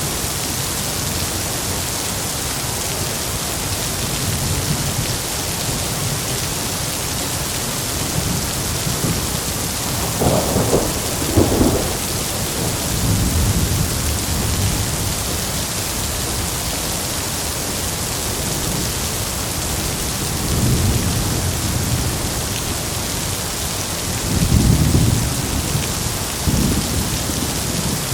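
Heavy rain pouring steadily, with rolls of thunder rumbling low under it. One louder, crackling peal comes about ten to twelve seconds in, and further low rumbles swell near the middle and toward the end.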